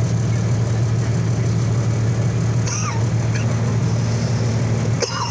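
Semi truck's diesel engine idling with its fan running, a loud steady low hum heard from inside the cab.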